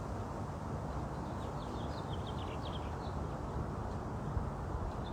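A bird chirping: a quick run of short high notes starting about a second and a half in, over a steady low background rush.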